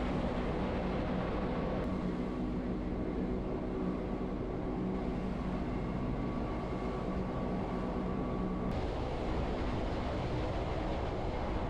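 Wengernalpbahn rack-railway train running, heard from on board: a steady rumble, with a faint steady whine that starts and stops abruptly.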